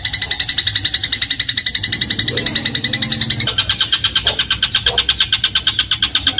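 Eurasian tree sparrow (burung gereja) giving a fast, unbroken chattering trill of high notes, about fourteen a second, of the 'gereja crot' type. The trill shifts to a slightly lower pitch about three and a half seconds in.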